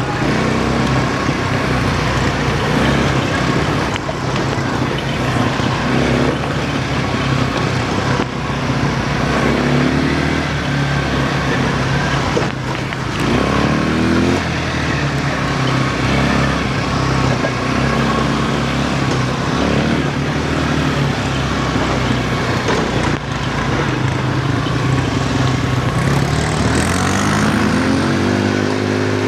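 Quad bike (ATV) engine running while riding, its pitch rising several times as the throttle is opened, the clearest rise near the end, over steady rushing wind and terrain noise.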